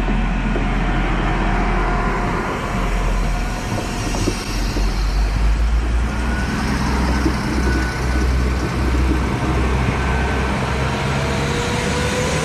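Two coupled SA133 diesel railcars passing: the diesel engines run under a steady rumble of wheels on the rails, with an uneven low pulsing through the middle and a slowly rising tone near the end.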